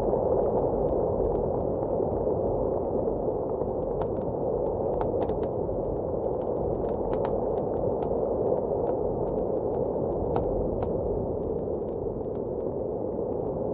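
Steady blizzard wind with the irregular crackles and pops of a wood fire burning in a fireplace.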